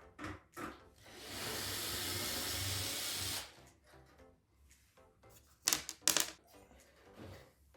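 A spray hissing steadily for about two seconds, followed by small clicks and two short, sharp noises, over background music.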